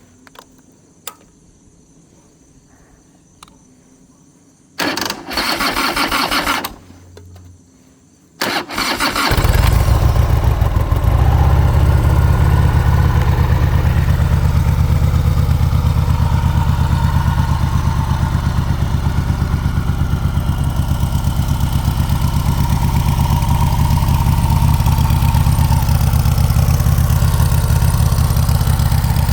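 Cold start of a 1989 Harley-Davidson Softail Custom's 1340 cc Evolution V-twin. The electric starter cranks for about two seconds without the engine firing, then cranks again a moment later, and the engine catches and runs steadily with an even pulse.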